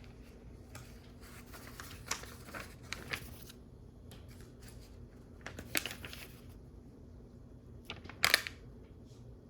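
Small plastic LEGO bricks clicking and rattling as they are handled and pressed together, in scattered groups of light clicks, with one sharper click near the end.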